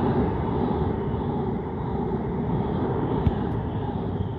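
Thameslink Class 700 electric multiple unit running past close by: a steady rush of wheels on rail, with a single sharp knock about three seconds in. The noise slowly fades near the end as the last carriages go by.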